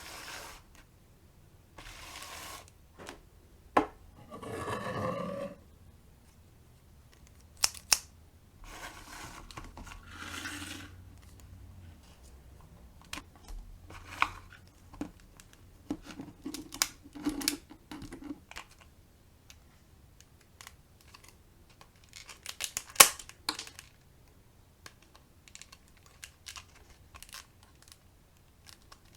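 Packaging being handled and opened: rustling, crinkling and tearing in short bursts, with several sharp clicks and taps, the loudest a cluster of clicks near the end.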